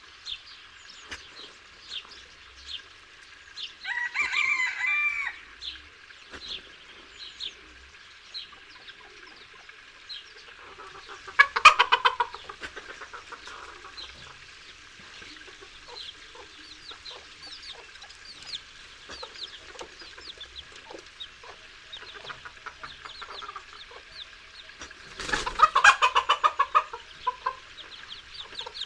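Farmyard chickens: a rooster crows once about four seconds in, and hens break into loud bursts of clucking and squawking about eleven seconds in and again near the end, over a constant stream of short high chirps.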